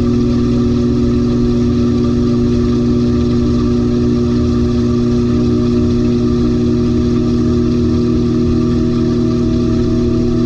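LG 18 kg top-load washing machine running, with a steady motor hum and a fainter higher tone that slowly rises in pitch.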